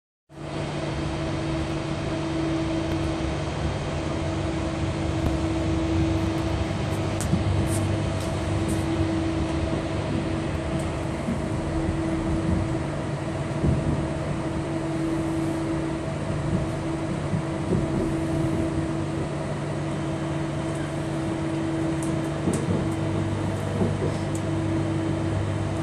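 Inside a train carriage as the train pulls away and gathers speed: a steady machinery hum with a few held tones over the rumble of the wheels on the track, and a few faint clicks.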